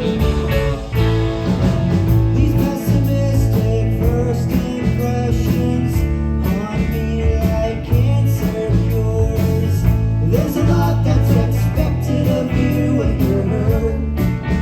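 Live rock band playing a song, with electric guitars, bass and a drum kit with steady cymbal strokes.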